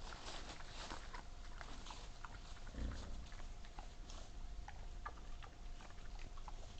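Wild boar feeding close to the microphone: scattered crunching and snuffling as they chew and root through animal remains, with a low grunt about three seconds in.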